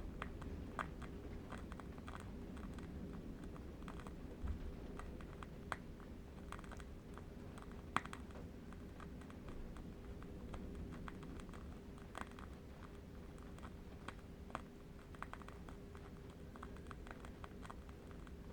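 Faint, irregular crackles and ticks from a burning candle wick, some sharper than others, over a steady low hum.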